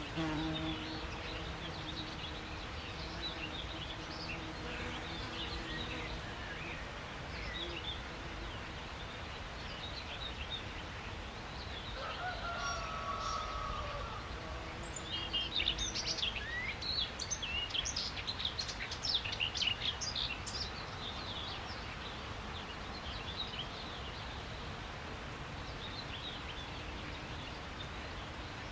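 Several wild birds chirping and calling over a steady low background hum of outdoor ambience. A drawn-out lower call comes about twelve seconds in, followed by a busy flurry of rapid high chirps lasting several seconds.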